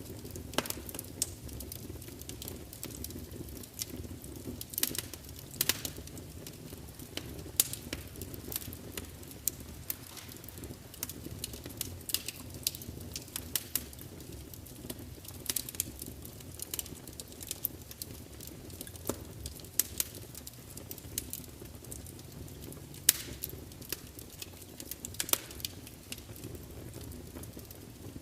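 Wood fire burning in a large fireplace: a steady low rumble of flame with irregular crackles and sharp pops from the burning logs, a few louder snaps scattered through.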